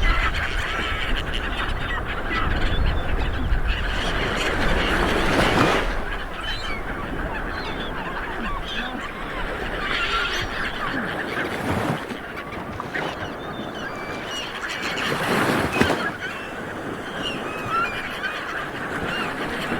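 Light waves washing onto a beach, swelling in a couple of surges, with birds calling over the surf throughout.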